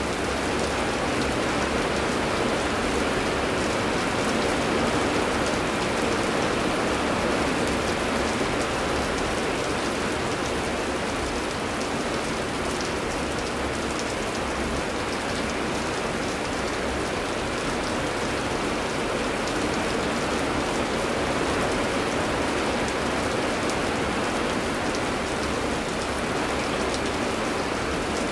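Steady heavy rain pouring, a dense even hiss of falling water with fine patter of drops landing on surfaces.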